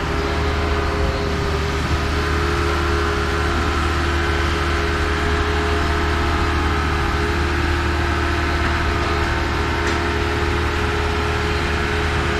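An engine running steadily at constant speed, a low hum with fixed overtones that hold the same pitch throughout.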